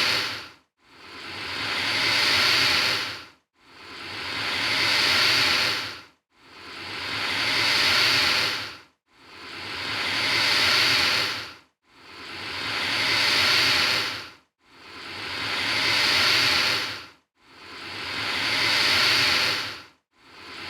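Alligator hissing, the same long breathy hiss repeated about every two and three-quarter seconds. Each hiss swells up and then dies away into a short silence, like a single recording looped.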